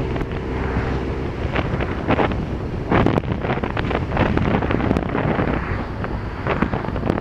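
Heavy wind buffeting the microphone of a moving vehicle, with a low road and engine rumble underneath and frequent crackles from the gusts.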